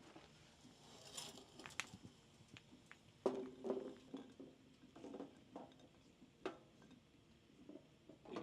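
Chestnuts being handled and turned on the iron top of a wood stove: quiet scattered clicks and small knocks, with one louder knock that rings briefly about three seconds in.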